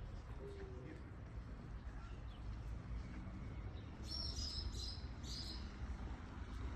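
Birds singing: a short low cooing call about half a second in, then a burst of high, quick chirps from about four to five and a half seconds in, over a steady low background rumble.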